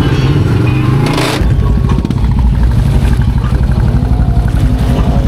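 Mega truck's engine running hard and revving close by, with a rapid, even pulsing, getting louder and deeper about a second and a half in.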